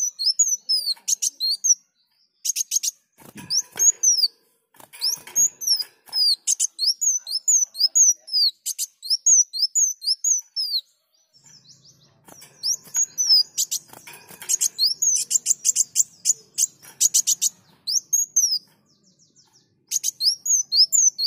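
Kolibri wulung (a dark sunbird) singing: fast runs of thin, high, sweeping chirps mixed with rapid trills, broken by short pauses.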